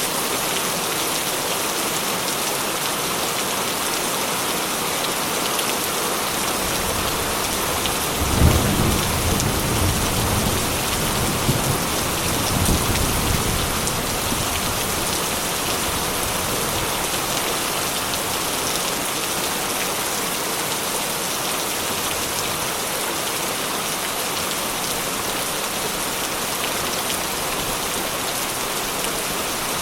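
Heavy rain falling steadily on a corrugated tin roof, with a low rumble of thunder that rises about eight seconds in and fades out some six seconds later.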